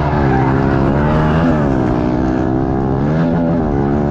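Pit bike engines revving hard, their pitch climbing and dropping again and again as the riders accelerate and shift through the gears.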